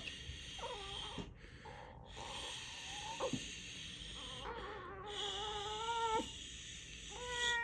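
A newborn baby fussing: a few short whimpers, then a longer wavering cry about halfway through, and another cry starting near the end.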